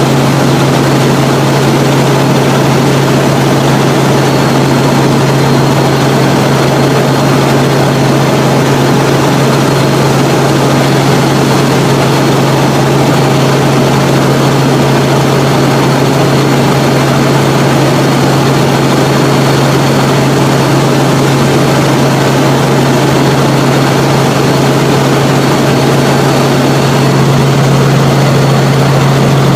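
Helicopter in flight, heard from on board: a loud, steady drone of rotor and engine with a strong low hum and a thin, high whine.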